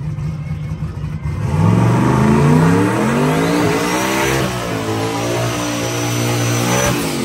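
Race truck's engine launching hard down a drag strip: revs climb, drop once about three seconds in as it shifts, then climb again, with a high whine rising over the engine, before the sound falls away at the end.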